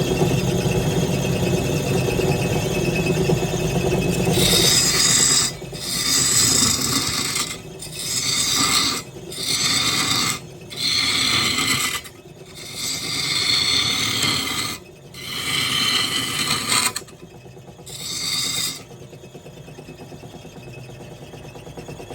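Wood lathe running, with the spinning wood worked in about seven rasping passes of one to two seconds each, separated by short pauses. Near the end the lathe runs on alone, quieter.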